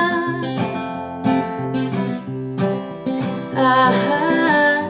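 Acoustic guitar strummed in a steady chord pattern, playing the instrumental passage between sung lines of a folk-style song.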